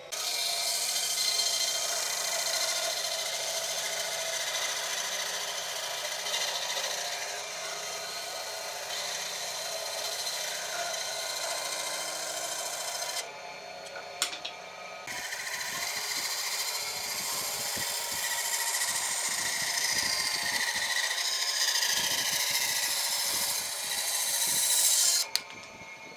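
A power tool working wood, running steadily with a short break about halfway through; later its pitch sinks for a few seconds.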